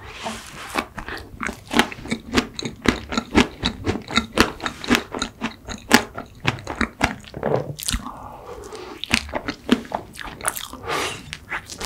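Close-miked biting and chewing of a chocolate-cookie ice cream sandwich: rapid crunching with many close, crisp chewing clicks throughout.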